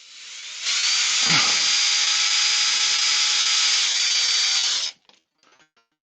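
Electric drill spinning up, running steadily at full speed for about four seconds with a brief bog as the bit bites, then stopping suddenly.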